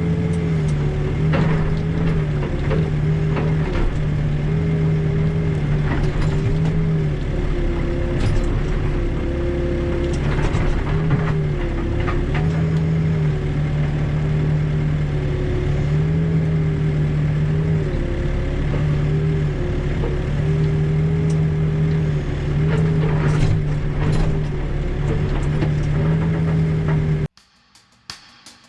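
Backhoe's diesel engine running steadily under digging load, its pitch dipping and recovering now and then as the hydraulics work, with scattered knocks and scrapes of the bucket in hard shale. It cuts off suddenly near the end.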